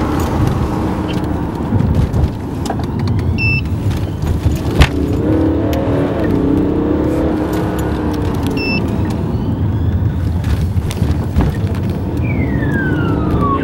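Emergency car's engine and road noise heard inside the cabin, the engine pitch rising and falling as the car speeds up and slows through traffic. There are two short electronic beeps, a sharp knock about five seconds in, and a falling tone near the end.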